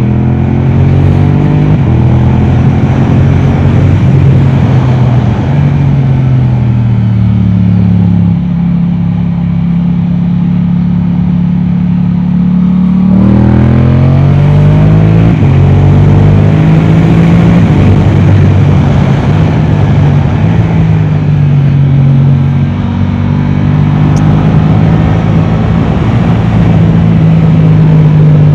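Yamaha R7's parallel-twin engine, breathing through an Akrapovic exhaust, run hard on track. Its pitch climbs and drops in steps with each gear change, and it surges sharply upward again about 13 seconds in.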